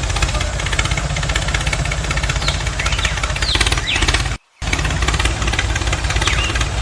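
An engine-like motor running steadily with a rapid chugging beat, cut off completely for a moment about four and a half seconds in before carrying on.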